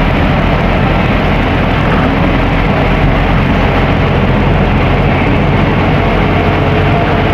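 Scania N270UD OmniDekka double-decker bus under way, its engine running steadily with road noise, a loud even sound that does not change.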